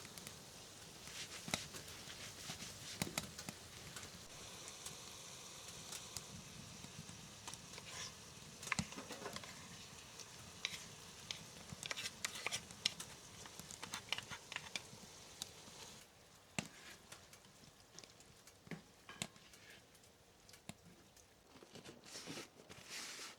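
Scattered soft taps and light crackles over a faint hiss; the background hiss drops away about two-thirds of the way through.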